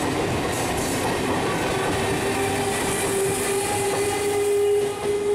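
Eastern Railway suburban electric local train (EMU) running past on the track: steady wheel-on-rail running noise with a clickety-clack, and a steady whining tone over it from about a second and a half in as the last coach goes by.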